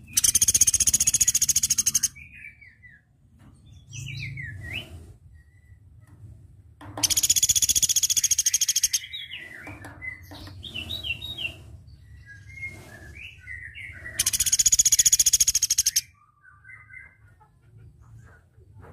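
Velvet-fronted nuthatch singing: three loud, fast rattling trills of about two seconds each, spaced about seven seconds apart, with softer short chirps between them.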